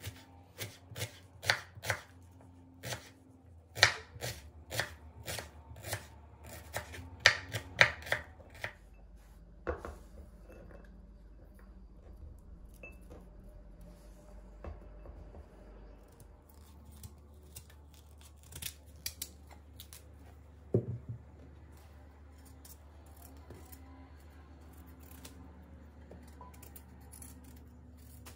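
Knife tapping a cutting board as food is cut: a run of irregular sharp taps for the first several seconds, then a few scattered knocks over a low steady hum.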